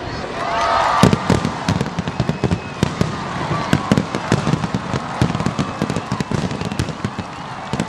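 Fireworks display going off: a dense string of sharp pops and bangs, loudest about a second in.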